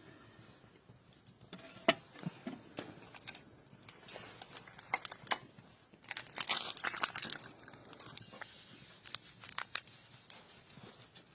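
Close handling noises: scattered sharp clicks and knocks, the loudest about two seconds in, with a burst of crinkling and rustling about six seconds in.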